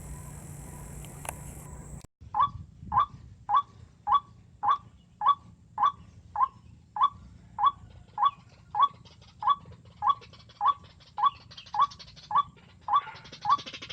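White-breasted waterhen (ruak-ruak) calling: a steady run of short, loud single notes about 0.6 seconds apart, starting suddenly about two seconds in after a steady high hiss cuts off.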